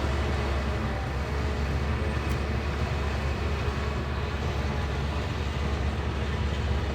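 Heavy diesel engine of a bulldozer running steadily under work, a constant low drone.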